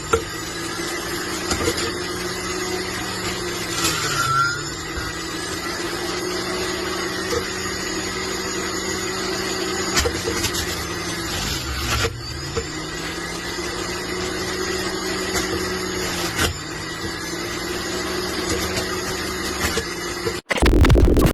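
Electric juicer motor running steadily with a constant hum. The hum sags in pitch briefly three times, with a few knocks, and there is a louder burst of noise just before it cuts off at the end.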